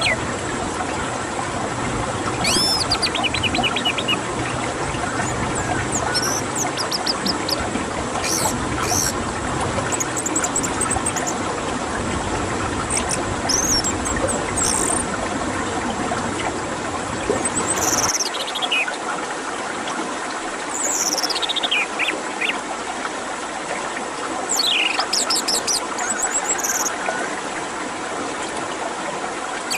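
Orange-headed thrush song: short, varied phrases of rapid sweeping and trilling high notes, one every second or two, over a steady background hiss.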